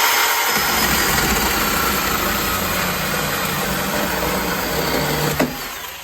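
Craftsman V20 10-inch cordless electric chainsaw running at full speed with its chain cutting through an untreated pine 2x4. About five and a half seconds in there is a sharp knock as the cut goes through, then the saw winds down.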